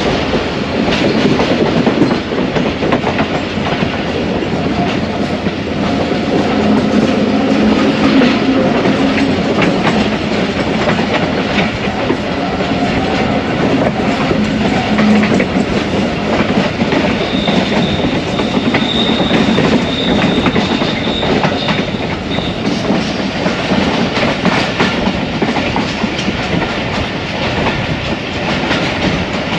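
Passenger train running along the track, its wheels clacking over rail joints over a steady rumble. A low hum comes in during the first half, and a thin high whine sounds for a few seconds in the second half.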